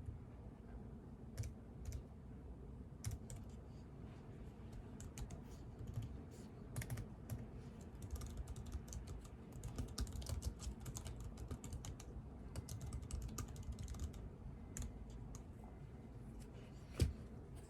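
Computer keyboard typing: a few scattered keystrokes at first, then quick runs of typing through the middle, with one sharper click near the end.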